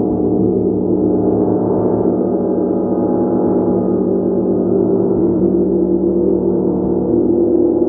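Large gong being played continuously: a loud, steady wash of many overlapping ringing tones, with no single strike standing out.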